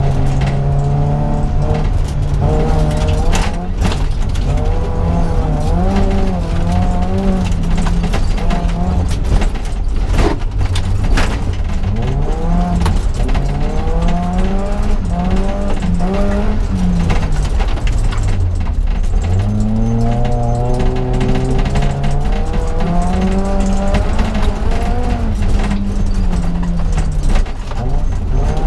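BMW 318is E30 rally car's four-cylinder engine pulling hard, heard from inside the cabin. Its revs climb and drop again and again through the gear changes, with a deep drop about two-thirds of the way through. A few sharp knocks from the car hitting bumps or stones cut through.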